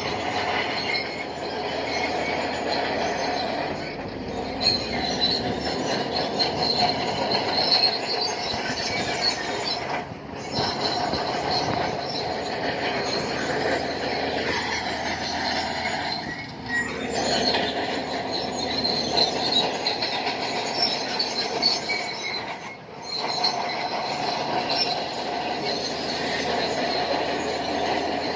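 Shantui crawler bulldozer working, its steel tracks giving a steady high metallic squeal over the running diesel engine. The noise dips briefly about every six seconds, and a tone falls in pitch about halfway through.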